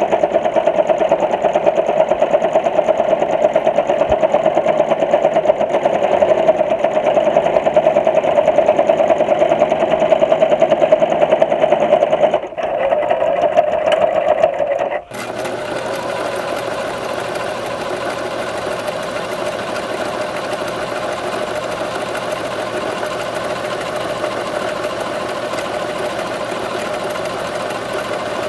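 Sewing machine running at speed with a fast, even stitching chatter. It dips for a moment about halfway through, then about a second later gives way to a quieter, steadier run with more hiss.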